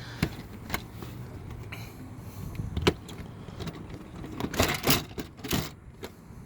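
Hands working quarter-turn Dzus-type fasteners and trim panels: scattered sharp clicks early on, then a quick run of clattering knocks and rattles about four and a half to five and a half seconds in.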